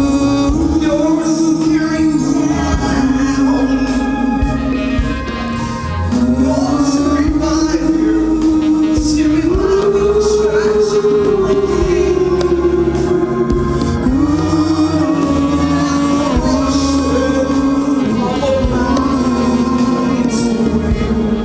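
Gospel worship song: long held, gliding sung notes over a band with bass and drums.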